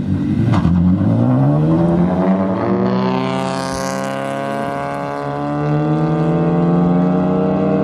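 Two cars launching from a standing start in a drag race, their engines revving hard under full throttle and rising in pitch over the first few seconds, then running flat out as they pull away.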